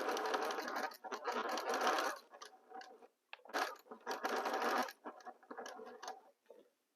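Sewing machine stitching in short runs. It stops and starts: about two seconds of sewing, a pause, a second run, then a lighter run that ends near the end.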